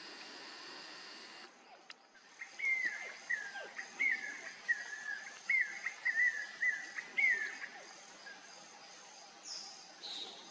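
A run of about eight short whistled calls, each falling in pitch, a little more than one a second, over a steady high insect drone. Near the end come two higher falling calls.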